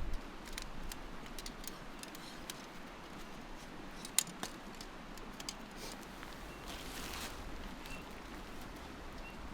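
Camping gear being handled: scattered light clicks and rustling, with one sharper click about four seconds in and a short rustle around seven seconds.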